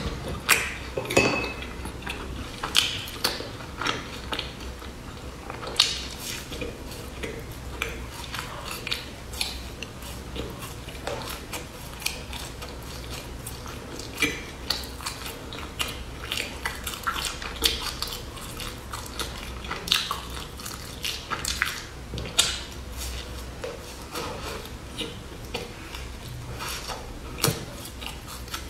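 Close-miked chewing and biting of a crunchy puffed-rice snack bar: irregular crisp crackles and clicks, a few louder bites standing out.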